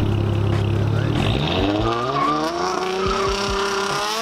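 A car engine running low and steady, then revving up about a second and a half in, its pitch rising and holding high.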